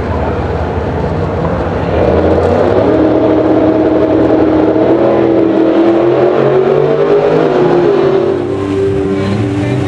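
Car engine under hard acceleration: it gets louder about two seconds in, its pitch climbs steadily for several seconds, then it eases off near the end.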